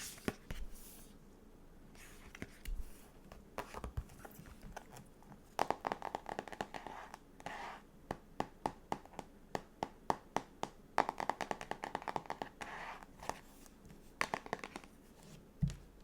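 Stickers and sticker-book pages being handled: many short ticks and scratches of paper and plastic being peeled, with two denser runs of rapid crackling, and a soft low thump near the end.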